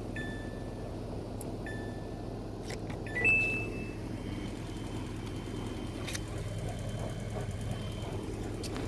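Washing machine control panel beeping as its buttons are pressed: two short beeps, then a louder, higher beep about three seconds in, with a few clicks, over a steady low hum.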